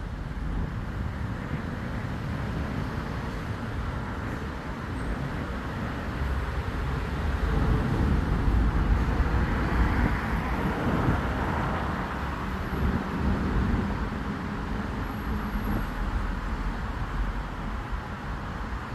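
Road traffic passing steadily, with one vehicle going by close, louder for a few seconds about halfway through.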